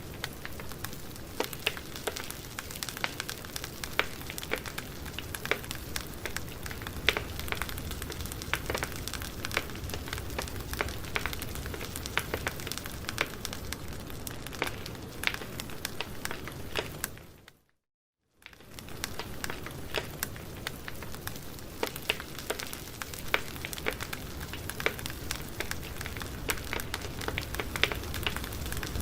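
Wood campfire burning, a steady hiss dotted with frequent sharp crackles and pops. About two thirds of the way through it fades out to silence for about a second, then fades back in.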